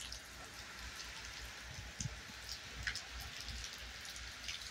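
Steady rain falling, a soft hiss with scattered drops ticking close by, over a faint low rumble.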